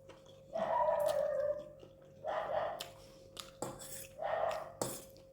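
Chow mein noodles slurped up loudly three times, about two seconds apart.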